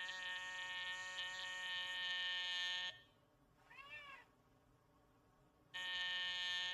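Cat meowing: a long, drawn-out yowl held on one pitch, a short meow about four seconds in, and another long, steady yowl near the end.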